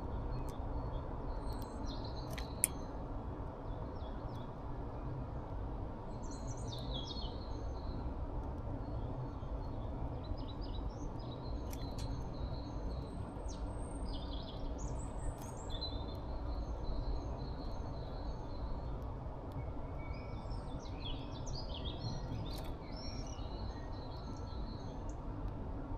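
Small songbirds chirping and twittering in short, scattered calls, over a steady low background rumble, with one sharp click about three seconds in.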